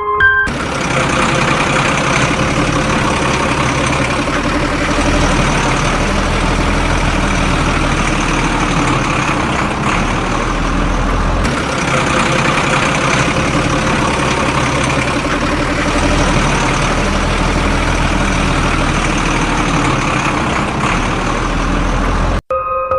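Heavy vehicle's diesel engine running steadily, likely a tractor or backhoe loader. It comes in abruptly at the start and cuts off suddenly near the end.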